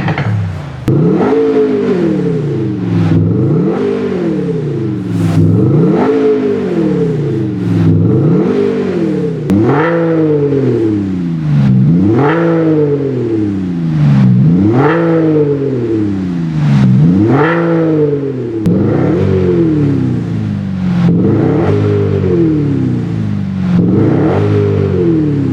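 BMW G30 520d's four-cylinder diesel revved again and again, about once every two and a half seconds. An active exhaust sound generator plays an engine note that rises and falls with each rev.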